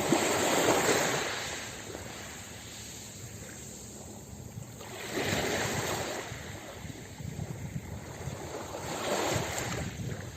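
Ocean waves breaking on a beach: three surges of surf about four to five seconds apart, the first the loudest, with a steady wash of water between them.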